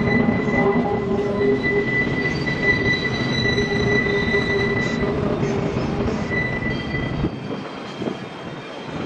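Freight train cars rolling past with several steady high-pitched wheel squeals over a dense rumble. About seven seconds in, the rumble falls away and only fainter squeal remains.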